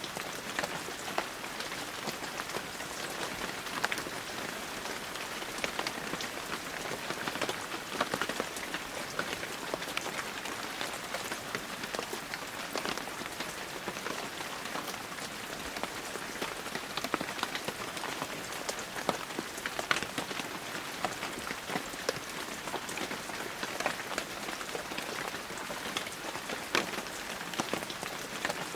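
Steady heavy rain with many close, distinct drops pattering on surfaces.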